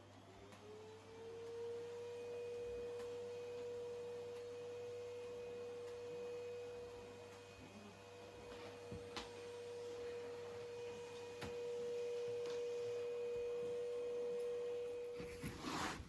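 A small electric motor spins up with a rising hum and runs on at one steady pitch, then shuts off shortly before the end. A few faint clicks fall in the middle.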